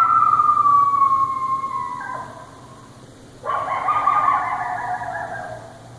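Coyote howling: two long calls, the first a held note that slowly falls in pitch, the second starting about three and a half seconds in, wavering and falling as it fades out.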